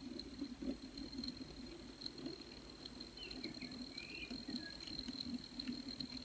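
N gauge model train running on the track: a steady low motor hum with a thin high whine above it and light clicking from the wheels, with a few faint short squeaks in the middle.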